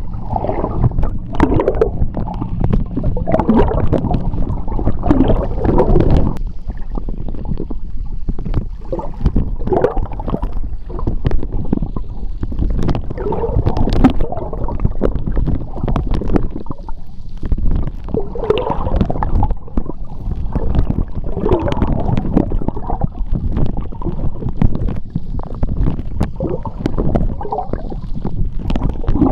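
Underwater sound of sea water: a continuous low churning rumble with gurgling bubbles and scattered small clicks, swelling and easing every few seconds.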